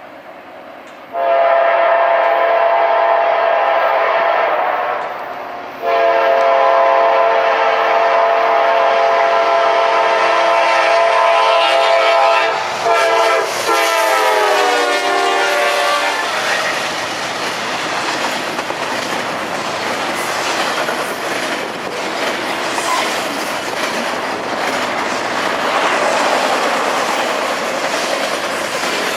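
Diesel freight locomotive's multi-chime air horn blowing the grade-crossing signal: two long blasts, a short one and a last long one that drops in pitch as the locomotive passes. Then the freight cars roll by with steady rumble and clickety-clack of wheels over rail joints.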